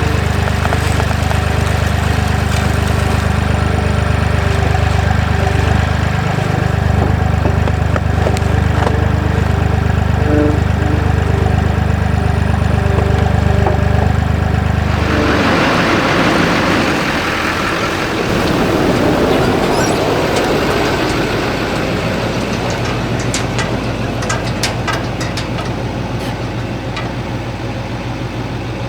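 Avant 755i compact loader's diesel engine running steadily. About fifteen seconds in, its note changes and a few seconds of rushing noise come in, then the engine runs on more lightly.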